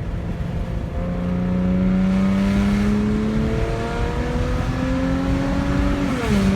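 A 2007 Saturn Aura XR's 3.6-litre V6 with a straight-pipe exhaust and resonator delete, accelerating hard. The engine note climbs steadily for about five seconds, then drops sharply near the end at an upshift and carries on pulling.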